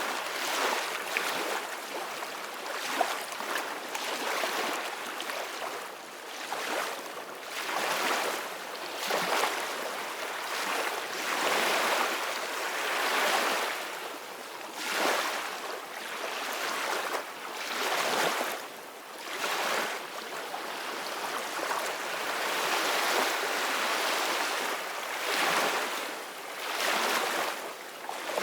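Sea waves splashing and washing, surging and falling back in repeated swells every couple of seconds, with no tone or voice in it.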